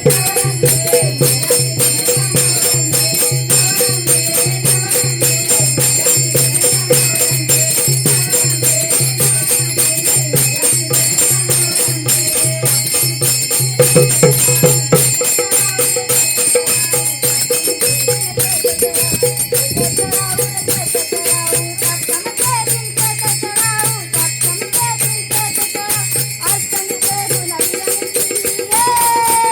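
Folk music with jingling percussion, bells or rattles shaken in a fast, steady rhythm over a repeating low drum beat and a held drone note.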